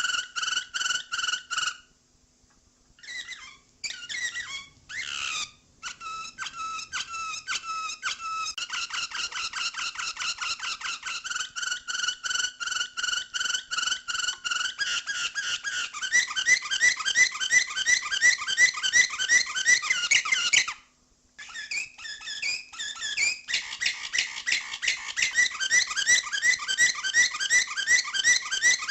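Domestic canary singing: fast trills of rapidly repeated high notes, switching from one trill to another every few seconds, with short breaks about two seconds in and again about two-thirds of the way through.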